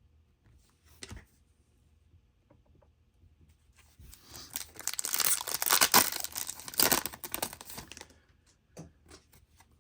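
A foil trading-card pack wrapper being torn open and crinkled, a dense crackling for about four seconds from about four seconds in. A small click comes about a second in.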